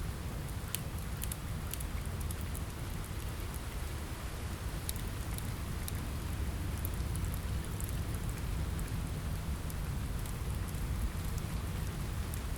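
Steady rain with a low rumble, and scattered sharp crackles from a wood fire in a fireplace.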